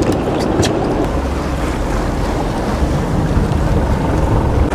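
Steady wind buffeting the microphone over the sound of the sea and the boat, a constant rumble without breaks.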